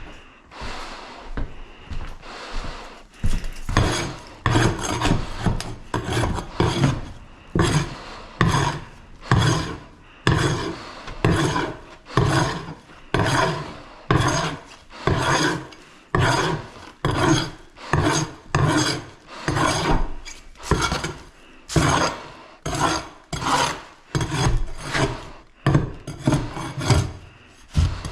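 Repeated rasping strokes, something rough worked back and forth by hand at a steady pace of about one and a half strokes a second, starting softer and settling into a regular rhythm a few seconds in.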